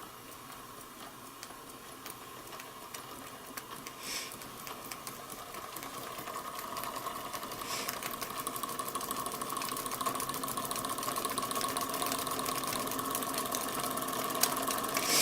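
Weeden Model 647 electrically heated toy steam engine running, a fast, even clicking with a steady whine underneath, getting gradually louder as it picks up speed, with two short hisses along the way.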